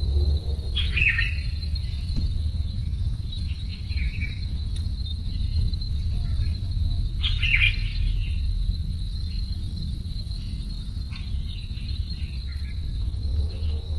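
Crickets chirping in a steady high trill, with two short, louder chirps about a second in and again about halfway, over a low rumble.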